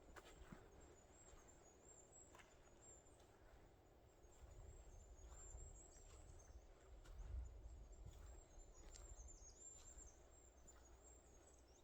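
Near silence: a faint low rumble of breeze on the microphone, a little stronger in the middle, with a few faint soft ticks.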